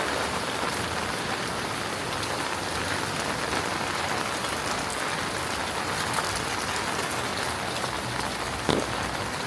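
Heavy rain falling steadily and hissing on hard surfaces, with one brief louder knock near the end.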